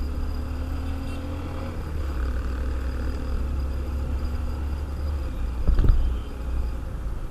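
Motorcycle riding on the road: steady heavy rumble of wind and road noise on the camera microphone, with the engine's hum underneath. A short louder jolt comes about six seconds in.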